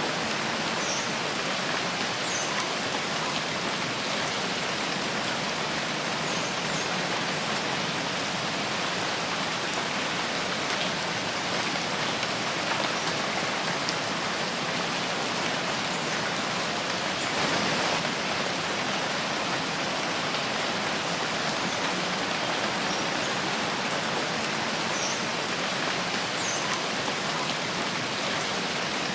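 Steady rain falling in a forest, an even hiss of many drops, briefly a little heavier a bit past halfway.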